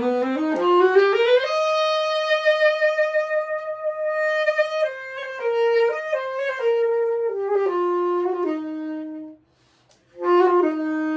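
A solo instrumental melody, one instrument alone: a rising run of notes, a long held high note, then a stepwise descending phrase. It breaks off briefly about nine and a half seconds in, then comes back on a long low held note.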